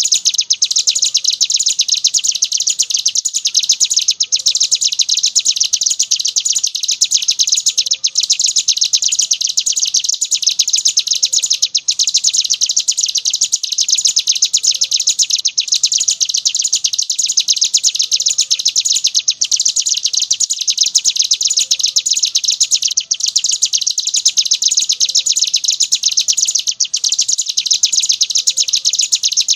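Ciblek gunung, a prinia, singing its 'ngebren' song: a loud, rapid, unbroken high-pitched trill that goes on without pause.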